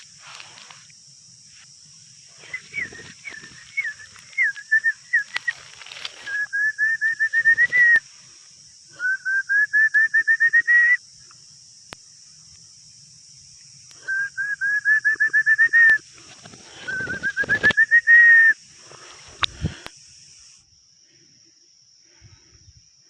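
Songbird singing: runs of fast, evenly repeated whistled notes, each run about two seconds long and rising slightly, four times, over a steady high hiss. A couple of sharp knocks come near the end.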